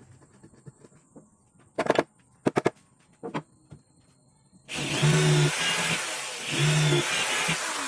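A few sharp knocks, then an electric power tool starts up loudly about two-thirds of the way in and runs in two surges with a steady hum under a harsh, hissing noise.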